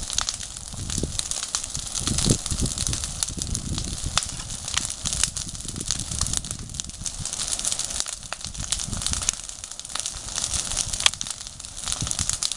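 Wood campfire burning, crackling with many sharp pops over a steady hiss and a low rumble; one louder pop near the end.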